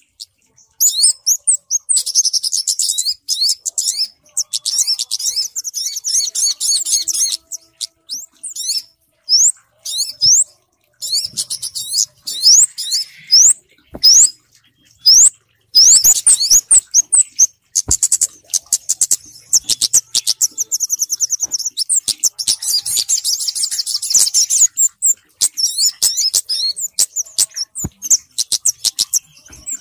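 Bird-lure recording of small birds, kemade and sogok ontong calls combined: high, thin chirps and fast trills in quick runs broken by short pauses.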